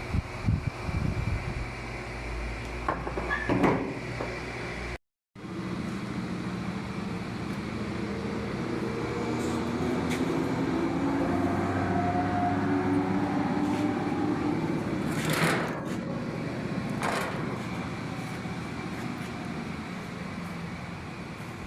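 Washing machine running: a steady motor hum with several tones that slowly shift as the drum turns, with a couple of sharp clicks in the second half. Knocks and clatter in the first few seconds, then a brief drop-out.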